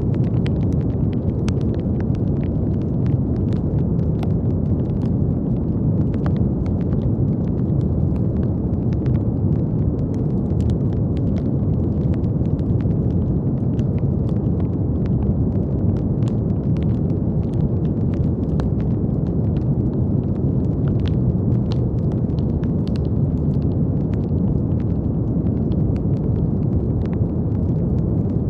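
Steady brown noise: a deep, even hiss with most of its weight low down, unchanging throughout, with faint scattered clicks over it.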